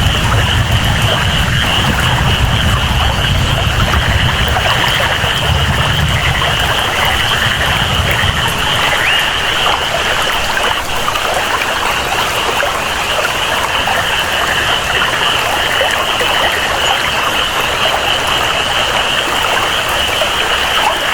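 Steady rain and flowing water, with a constant high-pitched jungle chorus over it. A low rumble underneath fades out about eight seconds in.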